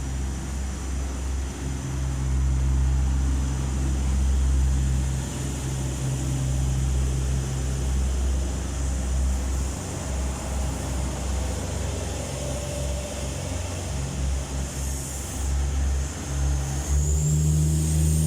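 Diesel multiple unit train pulling out of a station: its diesel engines run with a deep, steady rumble and hum, the engine note stepping up near the end as it accelerates.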